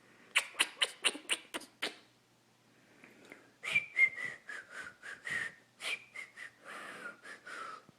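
Cockatiel chattering: a quick run of about eight sharp clicks, then after a short pause a string of short chirping whistles that fall in pitch.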